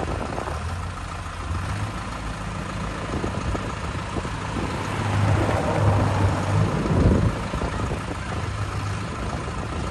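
Tractor engines running, with a steady low hum that grows louder about halfway through, then eases off again.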